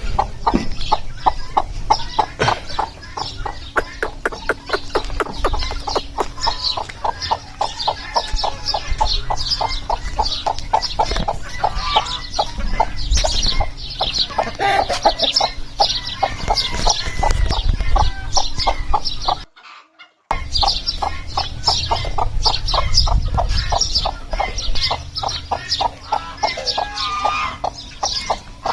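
A flock of laying hens clucking all together in a dense, continuous chatter, over a steady low hum. The sound cuts out for under a second about two-thirds of the way through.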